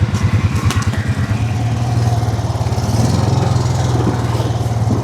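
Four-wheeler (ATV) engine running, its individual firing beats audible, picking up speed about two seconds in.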